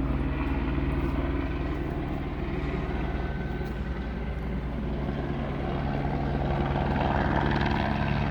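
Police helicopter overhead: a steady drone of rotor and engine, easing off slightly in the middle and growing louder toward the end.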